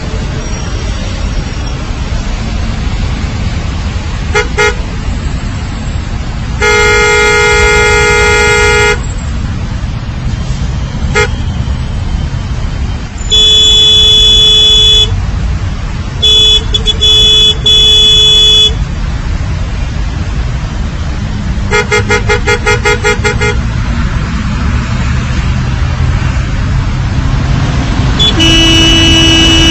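Road traffic with vehicle horns honking over a steady low rumble: long blasts and quick runs of short beeps, in at least two different pitches. Near the end comes a lower-pitched horn.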